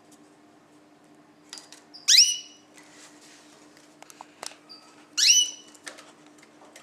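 Caged ornamental birds calling: two loud calls, each rising in pitch, about three seconds apart, with soft chirps and clicks between them over a steady low hum.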